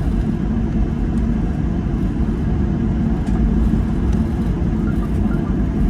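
Boeing 737-800 cabin noise: a steady, loud low rumble of the jet engines and airflow around the fuselage, heard from inside the cabin.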